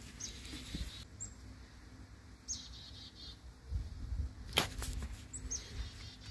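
A bird calling several times: short high notes that drop in pitch and trail off into a warble. A sharp click a little past the middle is the loudest sound, just after a brief low rumble.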